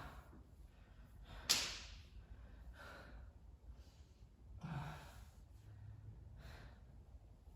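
A man breathing out heavily in short, separate breaths and sighs while holding a stretch, with a sharp puff about a second and a half in.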